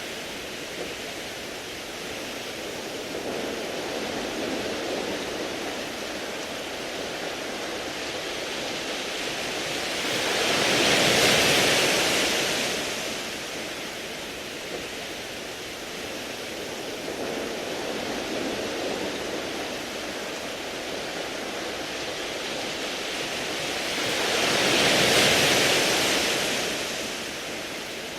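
Sea waves washing in and out over a beach of round pebbles: a steady wash with two waves swelling up and falling away, about 11 and 25 seconds in.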